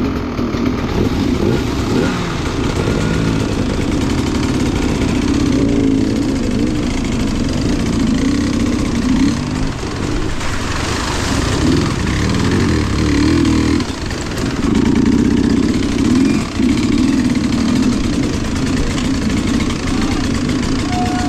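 Engine of an off-road vehicle running and revving up and down as it works through mud, with short dips in the revs.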